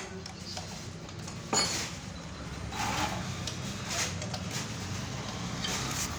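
Hand tools clinking on metal during work on a motorcycle engine, with one sharp clink about a second and a half in and lighter taps later, over a steady low rumble.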